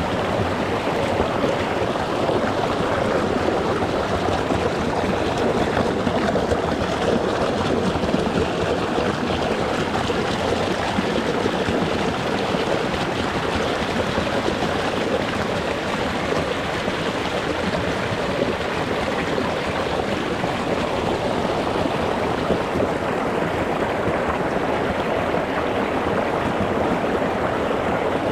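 Shallow mountain stream running over rocks: a steady, dense rush of water.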